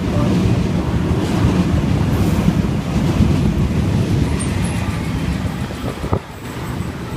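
Sydney suburban electric passenger train passing along the platform with a steady low rumble that fades about six seconds in, followed by a few sharp clicks.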